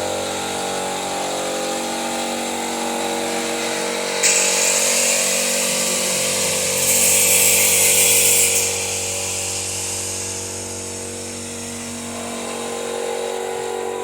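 Power tool or workshop machinery running, a steady hum made of several held pitches. About four seconds in, a loud high hiss joins it, grows louder around seven seconds and stops near nine seconds.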